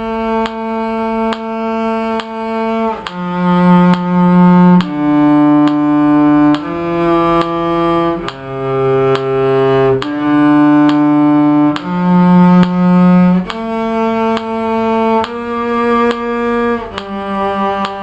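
A low-pitched bowed string instrument plays a slow tune in long held notes, changing pitch every second or two, over a steady, evenly spaced click.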